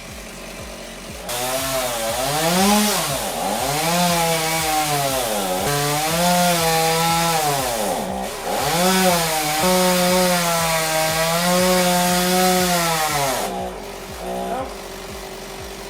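A two-stroke chainsaw revs up about a second in and cuts for about twelve seconds, its pitch dipping and recovering again and again as the chain loads in the wood. It then drops back to a low idle.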